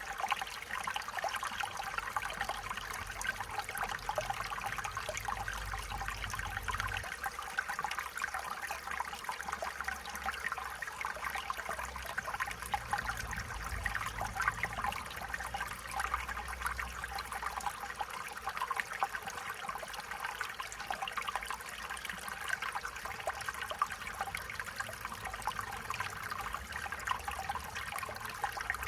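Stream water trickling and babbling steadily over stones, a continuous running-water sound with no other events.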